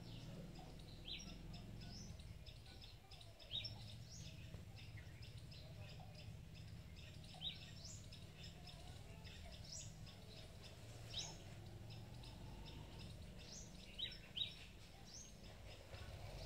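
Small birds chirping: many short, high, quick chirps scattered throughout, a few louder than the rest, over a faint steady low hum.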